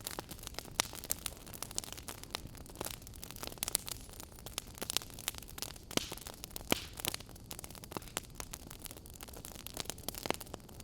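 Wood fire in a fireplace crackling, with irregular sharp pops and snaps over a steady low hiss and rumble of the burning logs.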